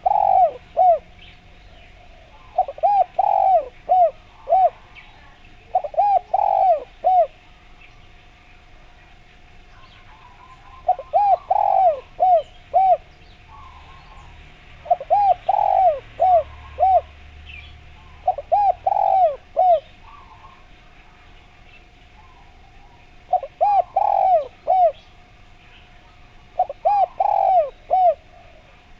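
Spotted dove (derkuku) cooing: short phrases of four or five quick arched coos, repeated every three to four seconds, eight phrases in all. A faint steady tone and small birds chirping lie behind.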